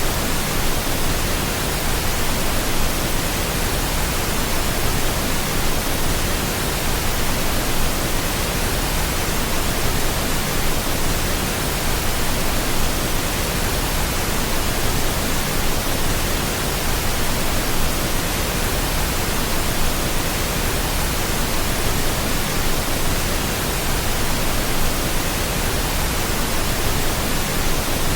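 Steady pink noise: an even, unchanging hiss spread across the whole range, used as a sleep sound for babies.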